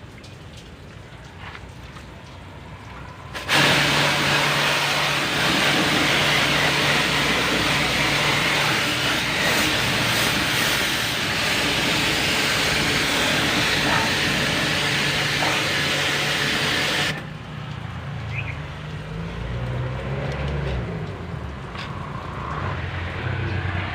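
A powered cleaning jet running with a loud, steady hiss over a low motor hum. It switches on abruptly about three and a half seconds in and cuts off about thirteen seconds later, leaving a quieter, uneven low rumble.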